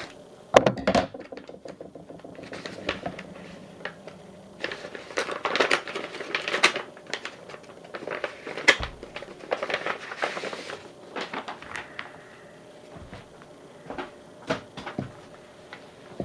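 A mail package being cut open and unwrapped by hand: scattered clicks and snips, with bursts of paper rustling and crinkling from the newspaper wrapping.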